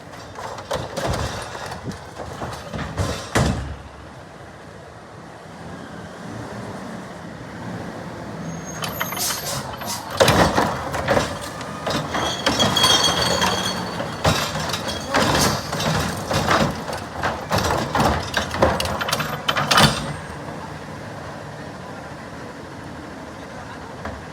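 Garbage truck working a stop: clanks and knocks, then a long run of metal bangs and clatter with a high squeal from about 8 to 20 seconds in, over the engine's steady running. The truck's air brakes hiss.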